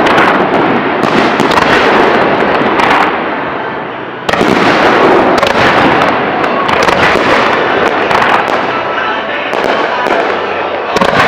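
Aerial fireworks bursting in a dense, rapid barrage, a continuous run of cracks and crackling. The barrage eases off a little, then a sudden loud new volley comes in about four seconds in.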